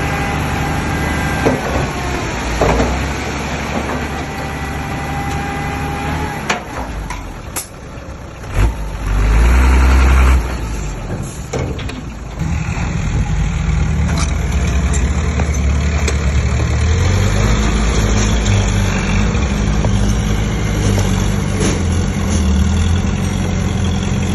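Heavy diesel engine of earthmoving machinery running under changing load, with a few sharp knocks in the first half and a loud surge about nine seconds in, then running steadily.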